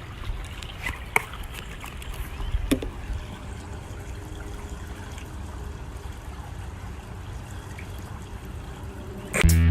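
Steady low rumbling noise, like running water, with a few faint clicks. Loud dance music with a heavy beat starts near the end.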